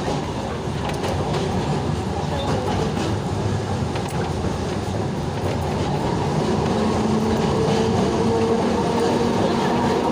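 A rail vehicle running steadily along the track, a continuous rumble and rattle with a low steady hum that fades in the first seconds and returns about two-thirds of the way through.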